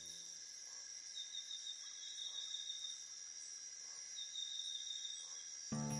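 Faint insect chorus of chirping crickets: several steady high-pitched drones, with a trill that comes in twice. Just before the end, plucked-string music starts.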